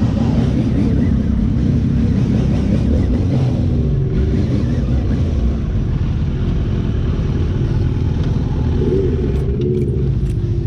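Motorcycle engine running as the bike is ridden at low speed, its note rising and falling a little with the throttle.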